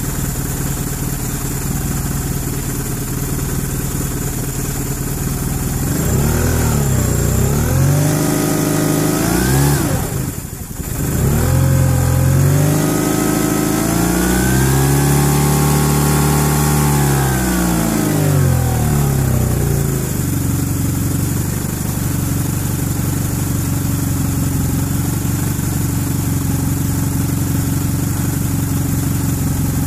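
1991 Eagle Talon TSi AWD's turbocharged 2.0-litre four-cylinder engine idling, then revved. From about six seconds in there are a few quick rises and falls, a brief drop off the throttle, then a longer rev held up for a few seconds before it settles back to a steady idle about two-thirds of the way through. This is the engine the owner is checking for a tick noise.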